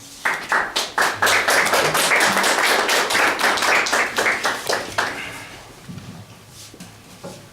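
Audience applauding, starting with a few separate claps, swelling into a dense round and dying away about five seconds in.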